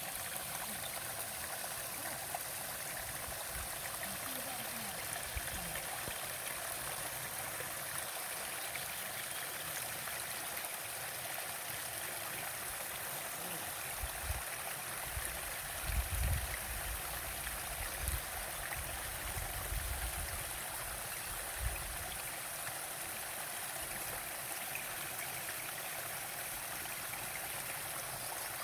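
Running water of a stream flowing steadily, an even rushing hiss. A few low thumps come about halfway through.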